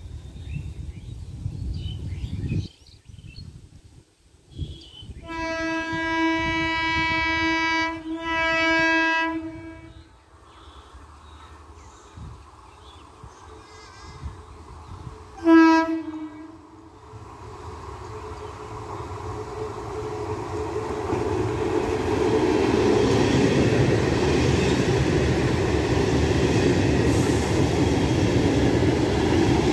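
Electric multiple unit (EMU) local train sounding its horn in two blasts about 5 seconds in, a longer one then a shorter one, and a single short toot about halfway through. The noise of the train then builds as it approaches, and it runs past loudly near the end with wheels clattering over the rails.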